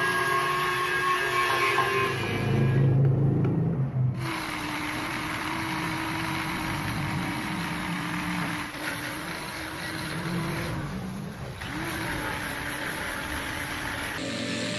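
An electric power tool's motor running with a steady hum and grinding noise, heard in several short clips cut together, as in wire-brushing or sanding rust off an old iron.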